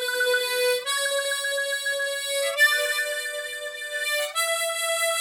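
Harmonica in the key of A playing four held notes that step upward, each with a fast flutter from tongue tremolo.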